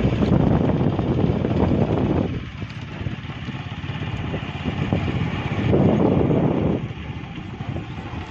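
Wind buffeting the microphone in gusts: loud at first, easing off about two seconds in, and swelling again around six seconds.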